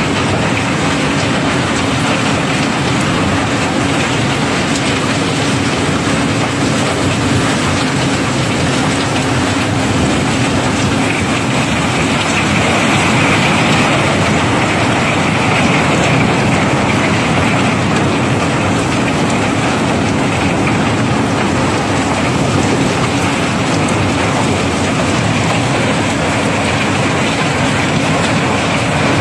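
River cobblestones flowing in a dense, continuous rattle as a barge's cargo is unloaded, with a steady low hum beneath.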